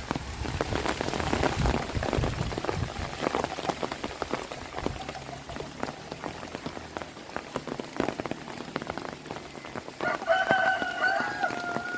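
Heavy rain falling, dense drops hitting surfaces. About ten seconds in, a rooster crows once, a call lasting about two seconds.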